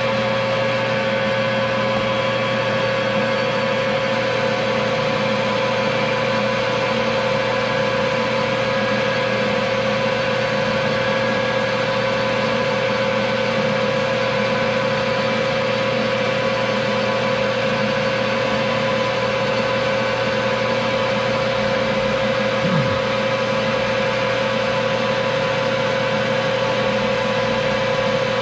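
Metal lathe running at a steady speed, turning a part down in diameter: a steady machine hum with a clear high tone over it.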